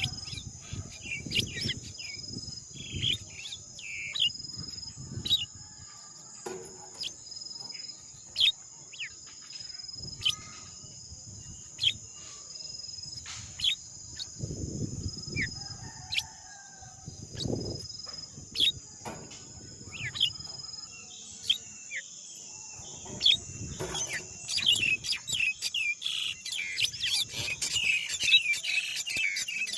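Birds chirping in short, sharp downward calls over a steady high insect drone, the chirping growing busier near the end; low rustles now and then.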